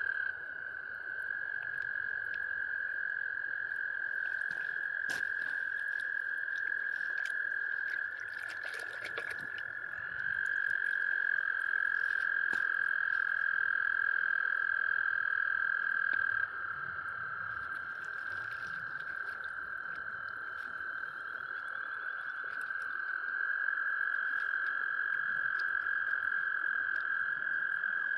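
A chorus of frogs calling: a continuous, steady high trill that overlapping callers keep going, its pitch shifting slightly a few times as one caller takes over from another.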